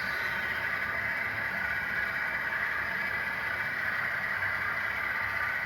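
Empty coal train's hopper cars rolling past, a steady rushing wheel-on-rail noise with a low rumble underneath.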